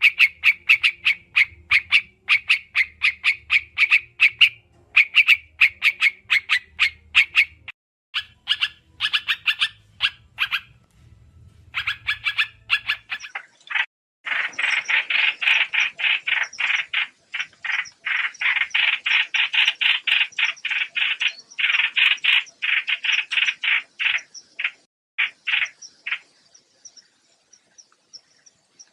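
Trao trảo bird calling: fast trains of short, sharp chattering notes, several a second, broken by brief pauses, typical of a lure recording used to call in birds for trapping. About halfway through the runs become louder and more continuous, over a faint low hum in the first half.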